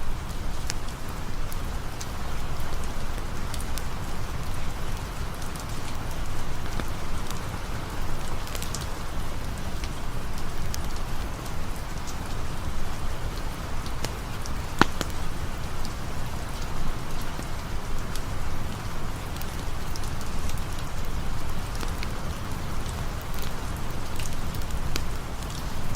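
Steady rain falling, with scattered sharp ticks and a louder single snap about fifteen seconds in.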